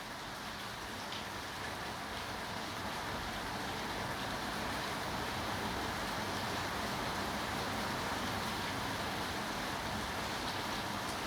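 Steady rain falling, an even hiss that grows a little louder over the first few seconds.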